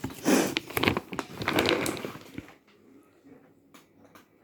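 A plastic pet-food bag crinkling and rustling as it is handled and turned over for about two and a half seconds, then a few faint clicks.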